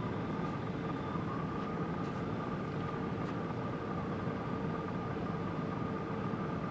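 Steady engine drone with a constant high-pitched whine over it.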